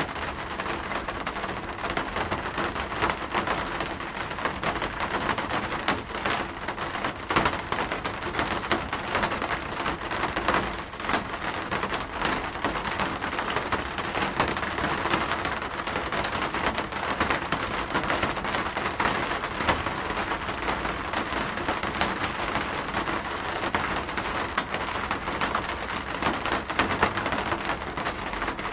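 Steady rain: a dense, even hiss of countless small drop impacts, with an occasional louder single drop standing out.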